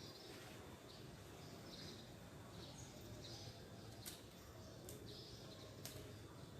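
Faint chirping, repeating roughly every half second to a second, with three sharp clicks in the second half.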